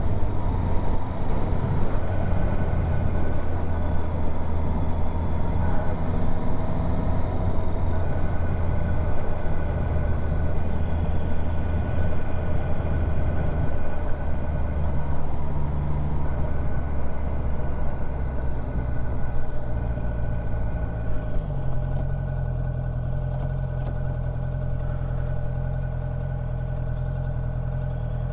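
Honda CB650F's inline-four engine running while the motorcycle is ridden, with wind noise. About three quarters of the way through the engine note changes and settles into a steadier, slightly quieter hum as the bike slows.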